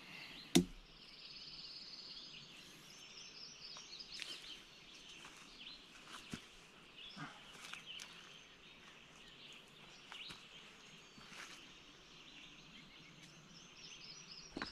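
Faint birdsong from several birds chirping and trilling at once in the early-morning woods, with a sharp click about half a second in.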